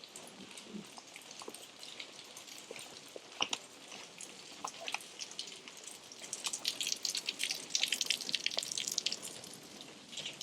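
Rain falling, many small drops ticking and dripping, thickest from about six seconds in until near the end.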